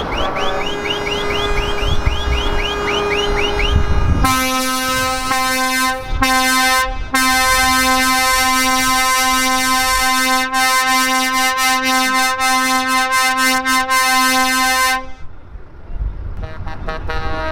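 Truck air horns blaring. After a few seconds of repeated rising chirps, one loud horn tone sounds in quick, regular pulses for about ten seconds, then stops. A different multi-note horn chord starts near the end.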